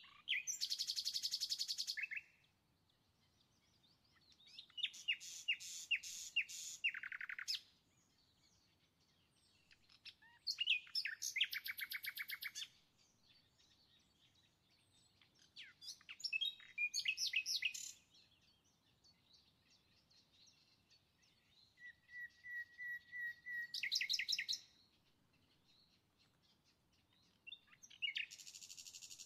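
A songbird singing in six separate phrases of rapid, high-pitched trills and repeated notes, each lasting about two to three seconds, with pauses of a few seconds between them.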